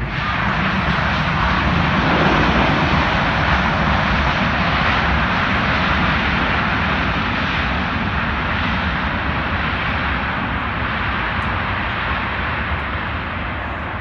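Airbus A320-232 airliner's two IAE V2500 turbofan engines passing close by as it lands. The loud jet noise rises sharply at the start, peaks about two seconds in, then slowly fades.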